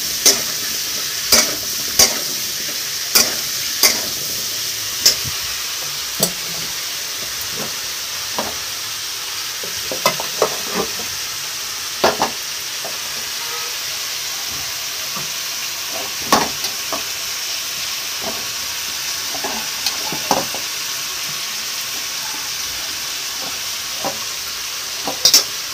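Chopped potato, brinjal and bottle-gourd stalks sizzling as they fry in a metal kadai, under a steady hiss. A metal spatula knocks and scrapes against the pan about once a second for the first five seconds, then only now and then.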